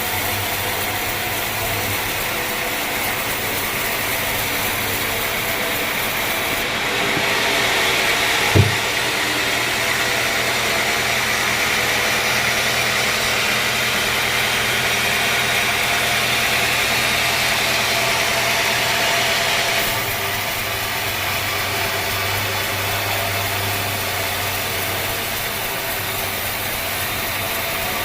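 Sawmill machinery running steadily with a low hum. A sharp knock comes about eight and a half seconds in. A louder, hissy upper layer starts and stops abruptly, lasting through the middle third.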